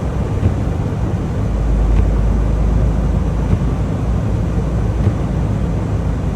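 Semi truck's diesel engine running with a steady low rumble that grows heavier about a second and a half in.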